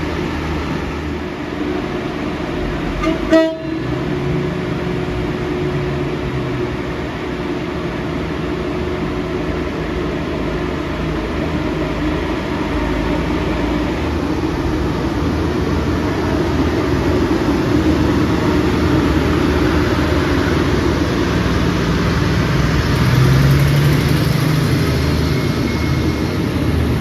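Diesel train running with a steady engine drone, and a short, sharp horn toot about three seconds in. The engine note rises and the sound grows louder in the second half.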